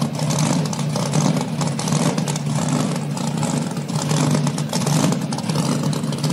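Big supercharged Steve Morris engine in a burnout truck running hard at a steady pitch while the rear tyres spin through a burnout.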